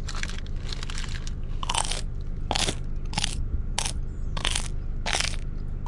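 A person biting into a breakfast sandwich, then chewing it close to the microphone, with a crunch about every two-thirds of a second.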